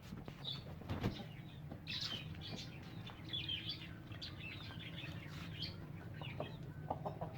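Birds chirping in many short, high calls, with a sharp knock about a second in and a steady low hum underneath.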